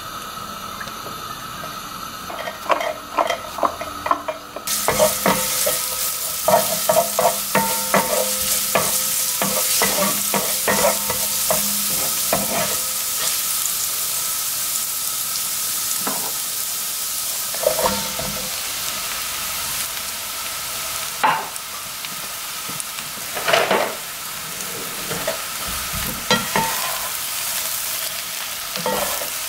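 Minced garlic sizzling in hot oil in a nonstick frying pan. The sizzle starts suddenly about five seconds in, and a wooden spoon stirs and taps against the pan. In the later part, louder knocks come as sticks of eggplant are stirred and tossed in the pan with wooden utensils.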